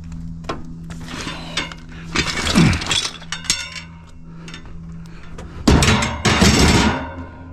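Scrap pieces being handled and set down, clanking and rattling, with a short clatter a couple of seconds in and a louder, longer one near the end, over a steady low hum.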